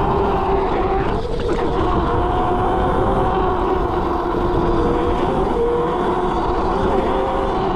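Ebox dragster mini bike riding along at a steady speed: a sustained whine that drifts slightly in pitch over heavy low rumble.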